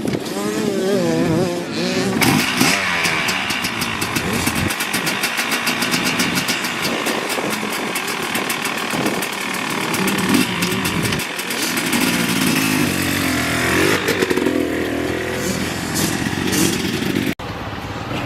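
Motocross dirt bike engine revving hard, its pitch rising and falling as the throttle is worked, then running at high revs with a rapid buzzing exhaust note. There is a sudden break near the end.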